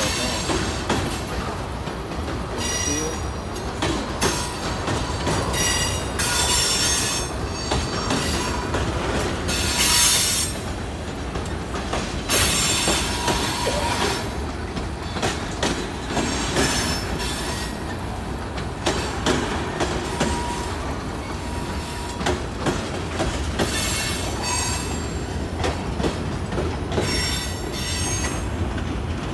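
Tank cars of a long CSX freight train rolling past: a steady rumble and rapid clatter of wheels on the rails, broken again and again by high-pitched squeals from the wheels.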